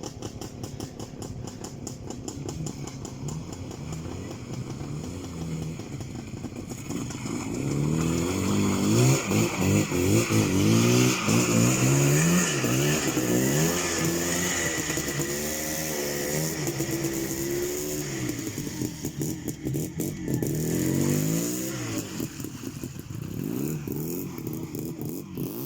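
Motorcycle engine revved hard through mud in repeated rising surges of throttle. It grows loudest about eight to fourteen seconds in, then fades away.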